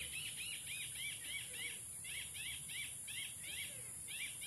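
Rapid series of short arched chirping notes, about four a second with brief pauses, from a calling bird, over a steady high-pitched insect drone.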